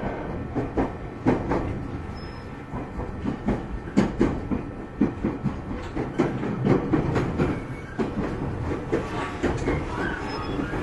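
JR 209-series electric train running, heard inside the motor car: a steady rumble from the wheels and bogies, with many sharp clicks and knocks as the wheels pass over rail joints.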